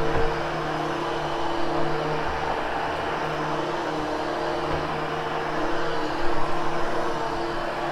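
Hoover HushTone upright vacuum cleaner running steadily over carpet, a constant motor hum and airflow rush, with a few dull low bumps as it is pushed.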